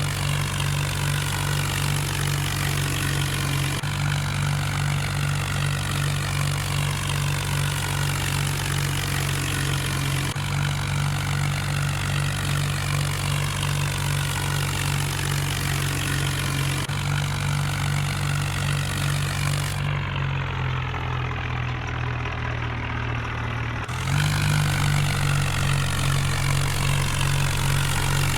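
Tractor engine running steadily at an even, low note. Its tone jumps slightly at a few abrupt joins, and it is a little louder over the last few seconds.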